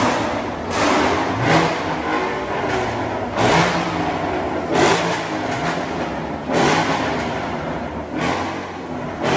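A car engine revved repeatedly in short surges, about six in all, each rising and falling away over a steady running background.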